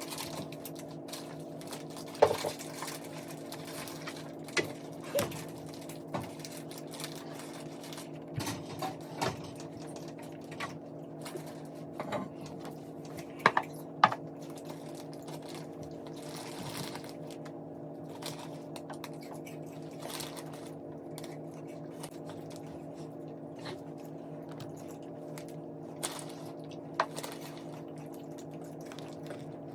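Close-miked eating of a meat dish and rice pilaf: scattered wet mouth clicks and smacks of chewing, loudest a couple of seconds in and again near the middle, over a steady low hum.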